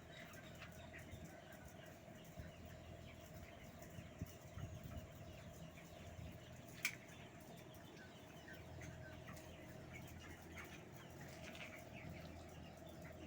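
Faint chirping and cheeping of many chickens in a poultry shed, over a steady machine hum, with one sharp click about seven seconds in.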